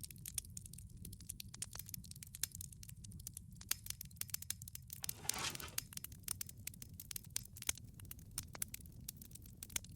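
Wood fire crackling in a wood-fired pizza oven: dense, irregular pops and snaps over a low steady rumble of flame, with a brief hiss lasting under a second about five seconds in.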